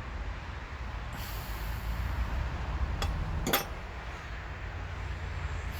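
Two metallic clinks about half a second apart, a little past the middle, as lawn tractor transmission parts are handled, over a steady low rumble.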